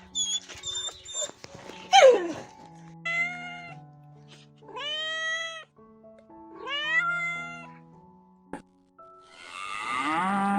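A domestic cat meowing three times, each meow rising in pitch, over background music, after a loud falling squeal about two seconds in. Near the end a cow begins a long moo.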